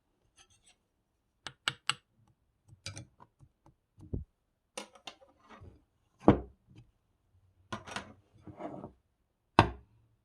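An irregular series of knocks and clicks, about a dozen, with heavier thumps about four seconds in, a little past six seconds and near the end.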